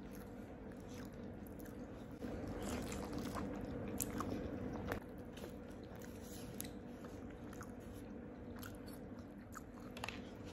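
Close-up chewing and biting of crispy fried chicken coated in gulai sauce, with scattered crunches and wet mouth sounds. It gets louder for a few seconds, from about two seconds in.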